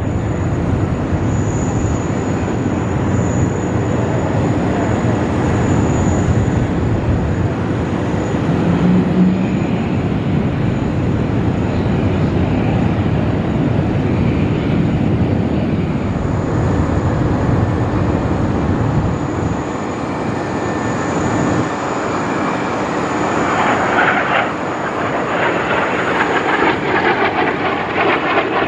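Jet noise from the Boeing 777X's two GE9X turbofan engines: a loud, steady rumble and hiss. The low rumble thins out and a rougher hiss comes up in the last few seconds.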